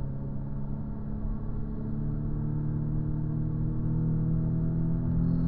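Audi S3's engine heard from inside the car, accelerating steadily in one gear: its pitch rises slowly and it grows louder.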